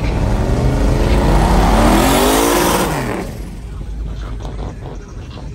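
Car engine revving hard as the car accelerates away, its pitch climbing for about a second and a half and then dropping off about three seconds in, leaving a quieter engine rumble.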